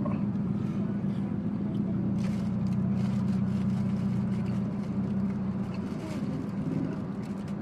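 Low, steady vehicle engine hum heard inside a car cabin, easing off about six seconds in, with light clicks and rustles of a plastic food bag.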